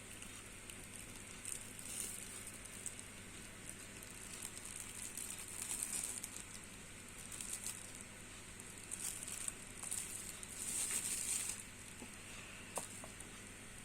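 Faint, irregular rustling and crinkling of packaging being handled while a webcam is unboxed, with a couple of small clicks near the end.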